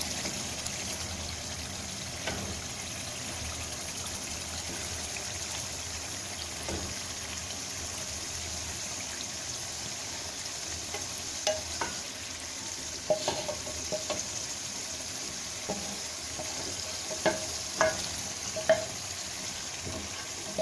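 Butter chicken masala sizzling steadily in a metal pot over a high gas flame as grilled chicken pieces are stirred in. From about halfway through, a spatula scrapes and knocks against the pot in short clicks.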